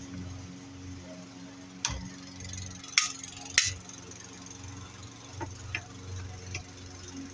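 A few sharp metal clicks and knocks as an LED light fixture is taken apart for scrap. The two loudest come about three and three and a half seconds in, with lighter ones later, over a steady low hum.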